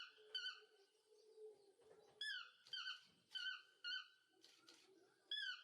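A toucan calling: short, sharp pitched notes that dip at the start, mostly in pairs, repeated every second or two.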